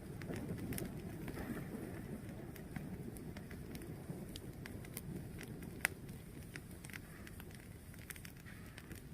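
Fire burning: a steady low rumble of flames with scattered crackles and small pops, one sharper pop a little before six seconds in.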